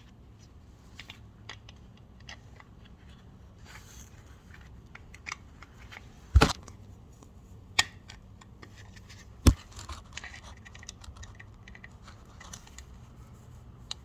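Screwdriver working the oil drain screw of a Tomos A3 moped loose: scattered small metal clicks and scrapes, with two sharp, louder clicks a few seconds apart in the middle.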